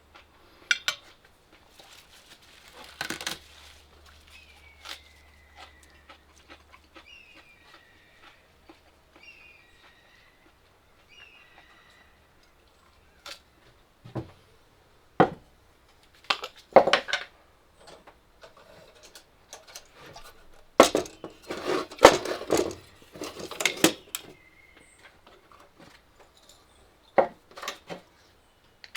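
Metal utensils clinking and scraping against dishes, in scattered strokes with a busier run a little past the middle. Faint bird chirps come through in the first half.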